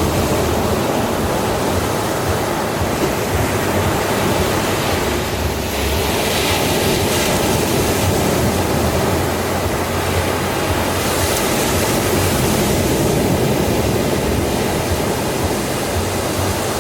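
Ocean surf washing onto a sandy beach: a continuous rush of breaking waves, swelling brighter and hissier about six seconds in and again about eleven seconds in.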